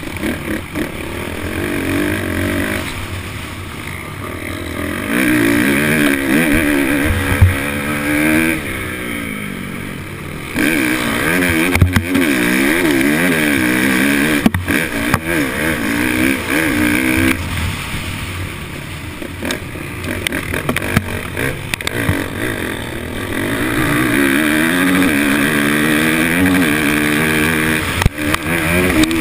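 Kawasaki KX450F single-cylinder four-stroke motocross engine, heard from on board under race load, its revs climbing and dropping again and again with throttle and gear changes. A few sharp knocks come through as the bike hits bumps.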